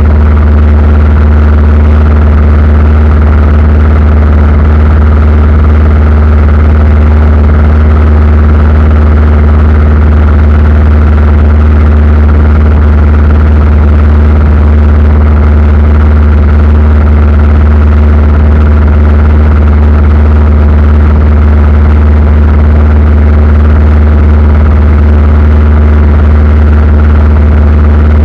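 Steady, loud drone of an airliner's engines heard from inside the cabin, a deep hum with several steady tones above it and no change in pitch.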